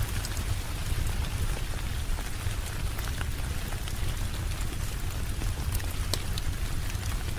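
Steady rain falling, a continuous hiss with scattered sharp drop ticks over a low, even rumble.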